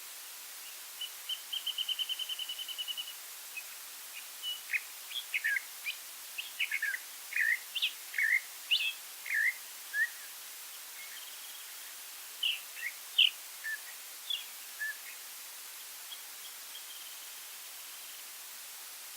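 Wild songbirds singing: a fast trill opens, then comes a run of short, varied chirps, and a fainter trill near the end, over a steady background hiss.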